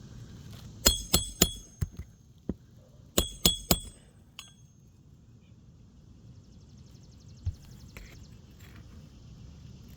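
Hammer driving roofing nails to fasten a replacement asphalt shingle: two quick runs of sharp, ringing metal strikes in the first few seconds, a few lighter taps among them, then only faint knocks.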